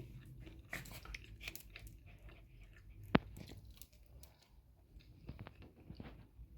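A person chewing and biting food close to the microphone, with faint irregular mouth clicks and smacks and one sharp click about three seconds in.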